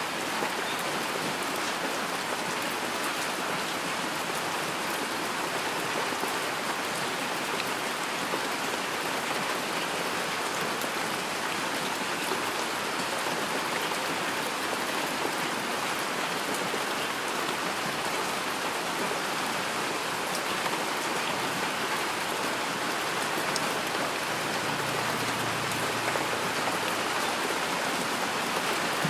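Steady heavy rain falling on a surface, an even hiss of rainfall with scattered individual drop patter.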